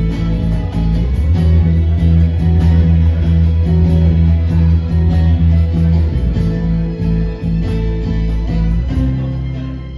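Live band music led by guitar, with a strong bass line and rhythmic strumming; it drops in loudness near the end.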